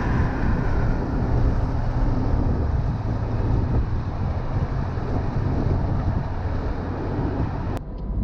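A car being driven: a steady rumble of engine and road noise. It cuts off abruptly near the end.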